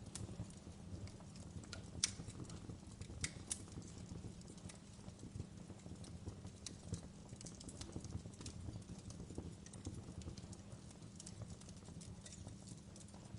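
Wood fire crackling: a low steady rumble of burning with scattered sharp pops and snaps, the loudest pops about two seconds in and again a little past three seconds.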